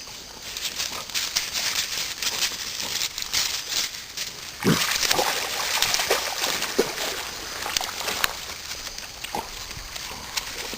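Dogs swimming and splashing in creek water, with several short vocal sounds from a dog between about four and a half and nine and a half seconds in.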